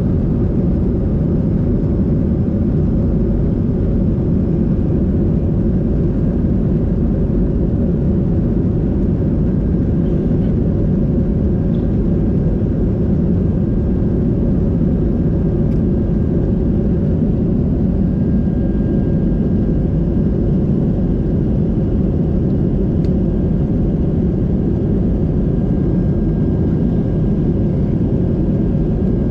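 Steady low rumble and road noise inside a moving tour coach, with a faint steady high whine underneath.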